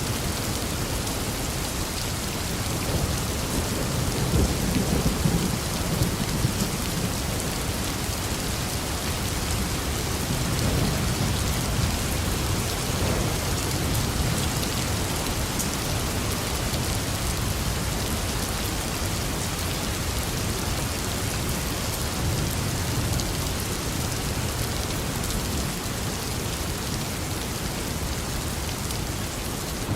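Steady rain falling, with low rolling thunder rumbling and swelling a few times, most strongly in the first half.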